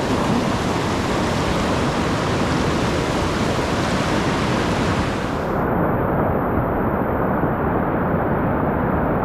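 River whitewater rushing steadily in a rapid. About five and a half seconds in the sound turns duller as the highest hiss drops away.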